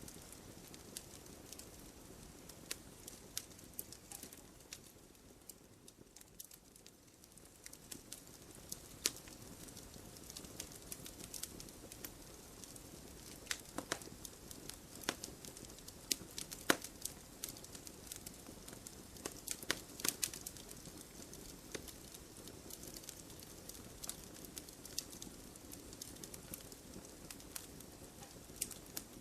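Wood fire crackling in a fireplace: irregular sharp pops and snaps of burning logs over a soft, steady rush.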